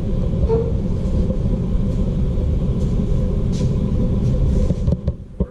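Steady low rumble with a faint hum, dropping away suddenly near the end.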